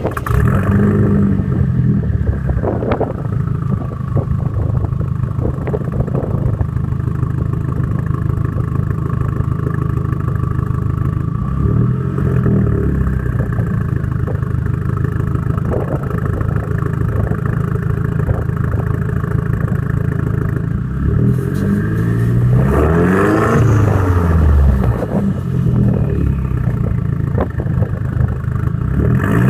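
Audi TT 1.8-litre turbocharged four-cylinder running through a straight-piped turbo-back exhaust with no cat, resonator or muffler, idling loudly and blipped. Short revs about a second in and around twelve seconds, a run of several revs between about 22 and 26 seconds, and another right at the end.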